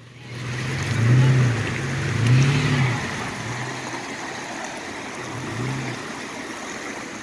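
Off-road vehicle engine revving in several swells, each climbing and falling back. The two loudest come about a second and two and a half seconds in, and a smaller one near the six-second mark. Rushing river water hisses steadily underneath.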